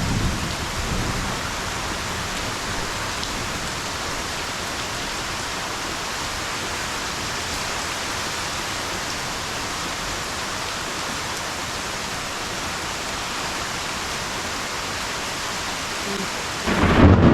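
Heavy rain falling steadily during a thunderstorm, an even hiss with no clear thunderclap. A louder sound cuts in suddenly just before the end.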